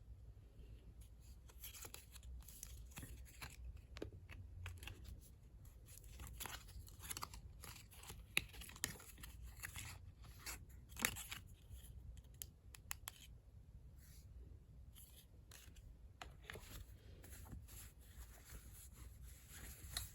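Packaging being handled during an unboxing: soft paper rustling and crinkling with scattered small clicks and taps, and two sharper clicks a little before and after the middle.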